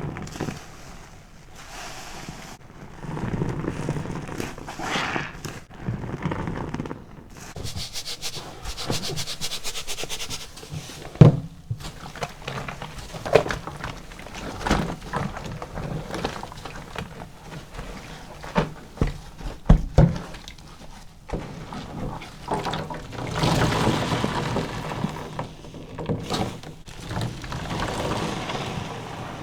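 Car-wash sponge full of foaming body soap squeezed and released again and again: wet squelching and crackling lather, with a few sharp wet smacks around the middle.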